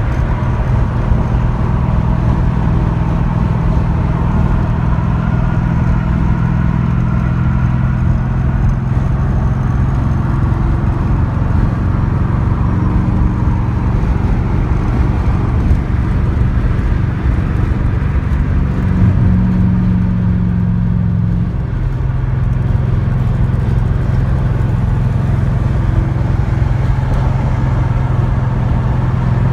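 Porsche 928 S4's V8 engine cruising at highway speed, heard from inside the cabin over steady road noise. The engine note swells about two-thirds of the way through, then eases off.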